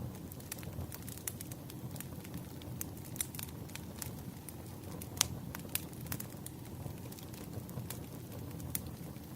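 Wood campfire burning, a steady low rumble of flame with irregular crackles and snapping pops from the burning logs, the loudest pop a little after five seconds in.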